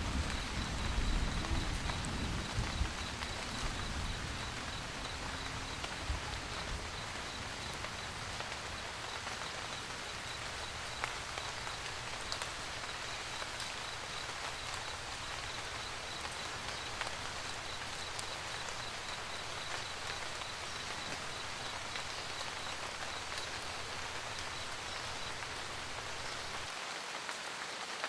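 Steady rain pattering on a camper van roof, with scattered drop ticks. A low thunder rumble fades away over the first few seconds.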